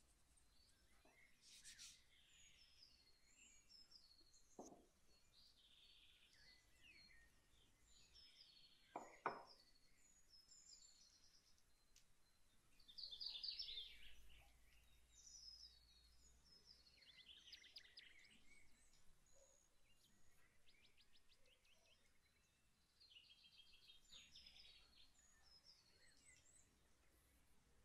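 Faint birdsong: small birds chirping and twittering on and off, with a brief louder spell of chirping about halfway through. Two short knocks sound in the first ten seconds, the second the loudest.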